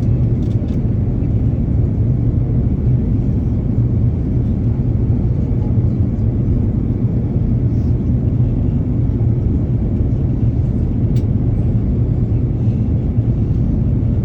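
Airplane noise: a steady low rumble that holds an even level throughout, with a faint click about eleven seconds in.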